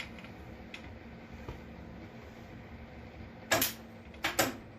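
Faint steady hum, then several short, sharp metallic clanks starting about three and a half seconds in, from metal parts and tools being handled during the welding work.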